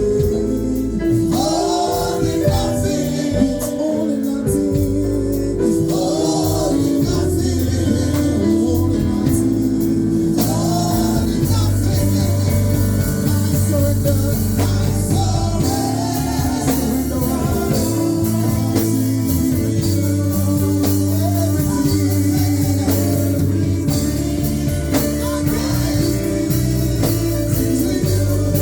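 Live gospel music with singing over a full band, with steady bass and sustained keyboard chords.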